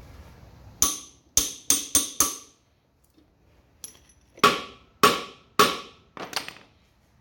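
Hammer blows on the lawn mower's blade bolt, struck on top to break the Loctite holding it. The ringing metal strikes come in two runs: five quick blows, a short pause, then four more.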